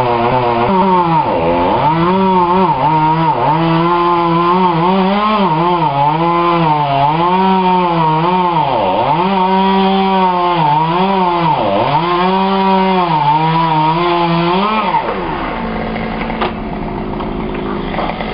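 Two-stroke chainsaw cutting wood at high revs, its engine note dipping and recovering again and again as the chain bites under load. About fifteen seconds in it drops back to idle.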